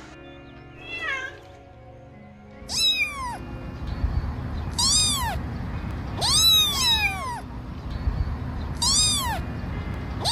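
Kitten meowing over and over, about six high-pitched meows, each rising and then falling in pitch, a second or two apart, two of them close together in the middle.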